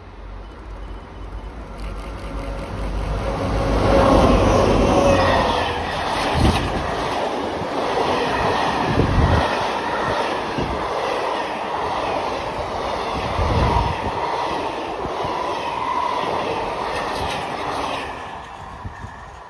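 Train of old passenger coaches passing close by on the rails: a swelling rumble of wheels that peaks about four seconds in, with heavy thuds of wheels over rail joints and brief wheel squeals, fading away near the end.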